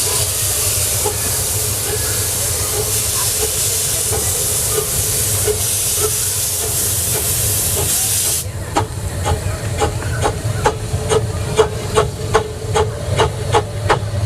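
Small 15-inch gauge live-steam 2-6-0 locomotive working: a loud steady hiss of steam with faint slow beats under it, which cuts off suddenly about two-thirds of the way through. Then sharp exhaust chuffs follow, coming faster as the engine gathers speed.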